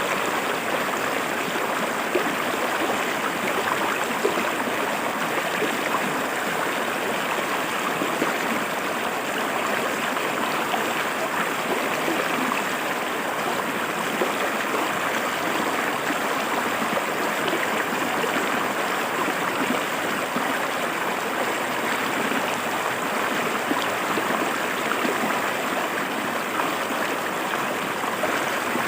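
River water flowing and splashing over rocks, a steady rushing and gurgling with no change in strength.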